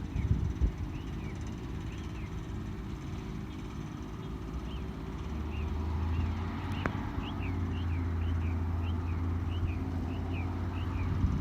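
Garbage truck's diesel engine running with a low, steady hum that grows louder about five seconds in, with one sharp click near the middle. A string of faint, short high chirps, about two a second, runs through the second half.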